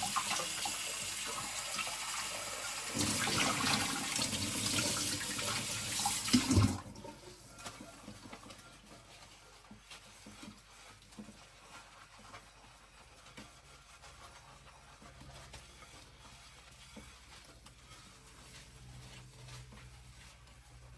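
Kitchen tap running with water splashing over stainless steel cookware being rinsed. About seven seconds in there is a knock, the water stops abruptly, and only faint small clinks and handling sounds follow.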